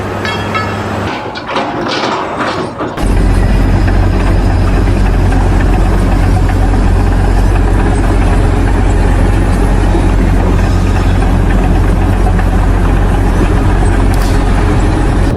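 A heavy engine or machine running loudly and steadily with a deep hum, starting abruptly about three seconds in and cutting off at the very end; before it, a few seconds of clatter and short knocks.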